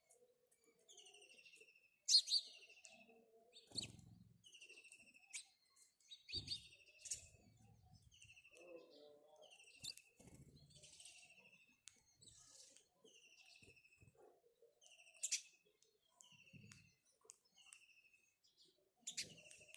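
House sparrows chirping: a string of short calls that slide downward, repeating about once a second, mixed with sharp single chips. A few faint low thumps come in between.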